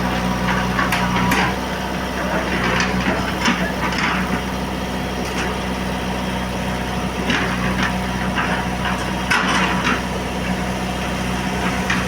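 JCB backhoe loader's diesel engine running steadily, with irregular clanks and scrapes from the digging bucket working the ground.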